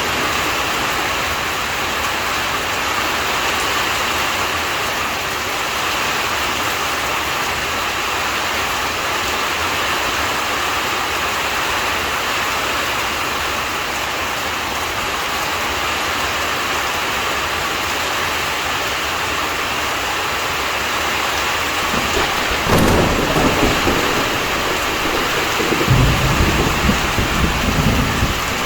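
Steady rain throughout. About 23 seconds in, a sudden crack of nearby thunder, followed by low rumbling that swells louder again near the end.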